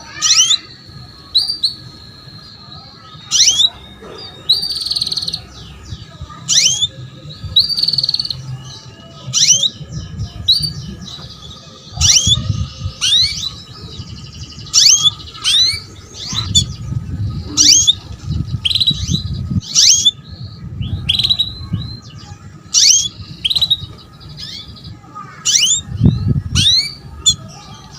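Female canary giving short, sharp chirping calls over and over, roughly one or two a second. These are the calls of a hen in breeding condition, used to stir male canaries into song.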